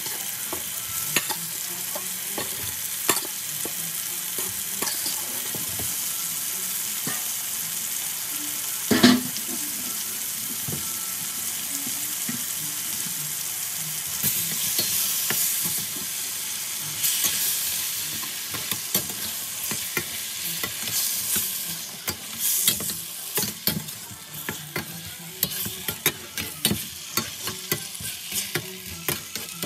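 Chicken pieces sizzling in hot oil in a stainless steel pan, a steady hiss, with one sharp knock about nine seconds in. In the last several seconds a metal slotted spatula stirs the chicken, knocking and scraping against the pan.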